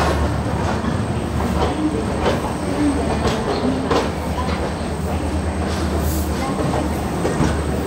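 Shan-e-Punjab Express passenger train running, heard from aboard: a steady low rumble of the coach, with sharper clacks of the wheels over rail joints now and then.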